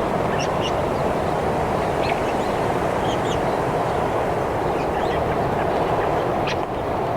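Short, high bird chirps, a few at a time, scattered over a loud, steady rushing noise.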